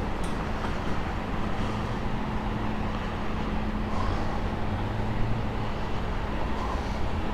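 Steady rumble of road traffic with a low, even hum underneath.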